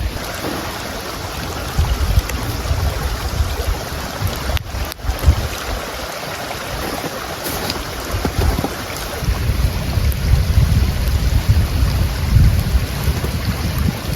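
Strong wind blowing in gusts, buffeting the microphone with a heavy, uneven low rumble over a steady rushing hiss; the gusts grow stronger in the second half.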